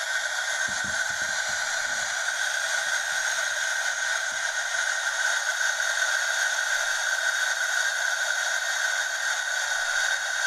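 WashTec automatic car wash running with a steady hiss.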